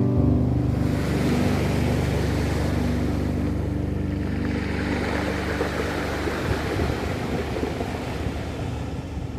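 Ocean waves surging and washing ashore in slow swells. Under them, low held notes of a music track fade out about two-thirds of the way in.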